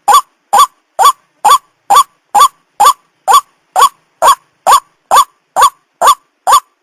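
White-breasted waterhen calling, a short harsh note repeated evenly about twice a second, each note rising and falling in pitch.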